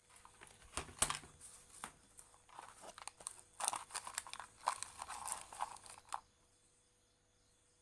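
Close handling noise during a repair: irregular rustling, crinkling and small clicks that stop about six seconds in.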